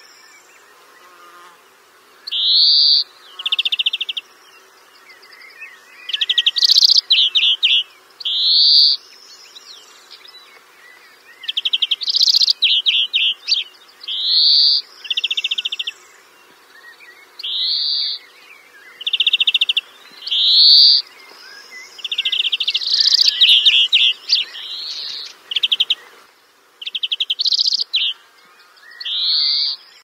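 A songbird singing in short phrases every second or two: quick upward-sweeping high notes and fast buzzy trills, with brief pauses between phrases.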